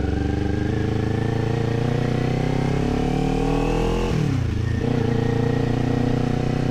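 Kawasaki Z400's parallel-twin engine running under a rider, its pitch climbing steadily as it pulls. About four seconds in the revs fall sharply, as on an upshift, and it then runs on steadily.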